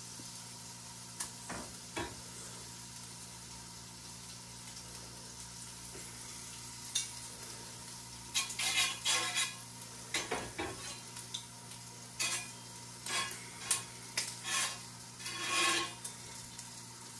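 Butter and sausage links sizzling steadily in hot pans, the griddle running a little too hot. From about halfway through, a metal utensil clicks and scrapes against a pan as the food is moved around.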